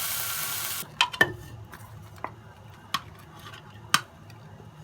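Rice and vegetables sizzling in a frying pot that cuts off suddenly under a second in, followed by about five scattered clinks and knocks of a utensil against a metal pot.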